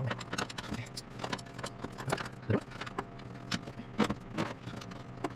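Light, irregular metallic clinks and taps of hand tools and loose bolts being worked on a truck engine's top end.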